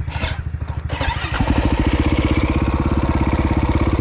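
Dirt bike engine idling with an even, rapid pulse, then picking up revs about a second in and running steadily at the higher speed as the bike pulls away.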